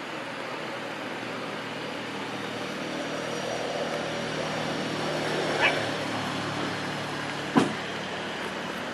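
Steady rush of ocean surf, with a single dog bark about five and a half seconds in and a sharp crack about two seconds later.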